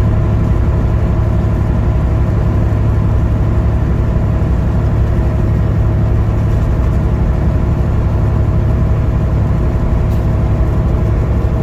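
Peterbilt semi truck's diesel engine running steadily at highway cruising speed, a constant low drone with steady engine tones and road noise.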